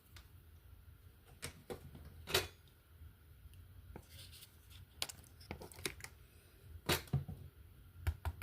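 Scattered light clicks and knocks from handling a gold pan of concentrates, over a low steady hum.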